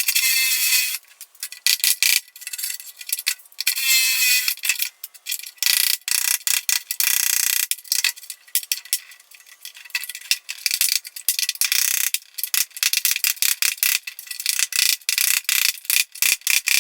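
Flathead screwdriver hammered with a mallet into the seam of a car door skin: rapid sharp metal-on-metal taps, with a few second-long stretches of scraping, ringing metal as the drilled-out spot welds are pried apart.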